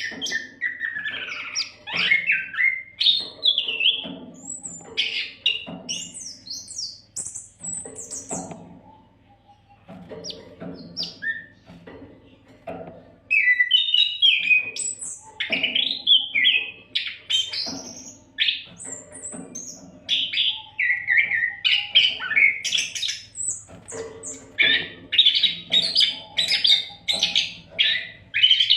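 Oriental magpie-robin (kacer) in full song: a rapid, varied stream of whistles, chirps and harsher notes, with a short lull about nine seconds in.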